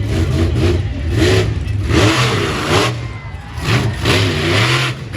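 Monster truck engine revving up and down again and again as the throttle is blipped hard, its pitch rising and falling every half second or so.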